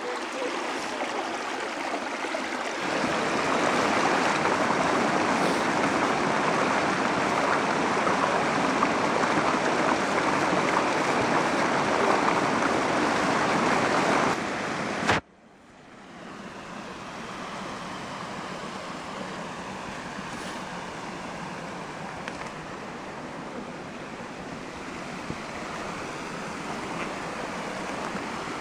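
A forest stream running, a steady rush of water. About halfway through, the sound breaks off sharply and the water comes back softer.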